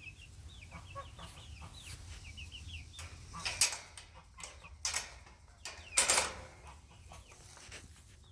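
Chickens making soft, repeated short calls, with three brief, loud noisy bursts around the middle.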